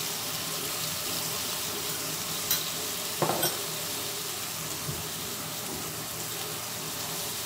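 Diced chicken frying in a wok, a steady sizzle as the browned pieces are dusted with a dry seasoning mix. A few light clicks come about two and a half to three and a half seconds in.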